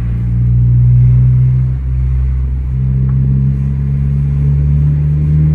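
2013 Honda Civic Si's 2.4-litre four-cylinder engine pulling through an Invidia N1 cat-back exhaust while driving, with a steady low drone. The sound dips briefly about two seconds in, as at a gear change, then the engine pitch climbs slowly.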